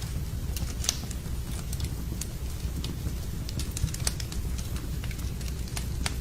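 Wood campfire crackling, with scattered sharp pops and snaps, the loudest about a second in and around four seconds in, over a steady low rumble.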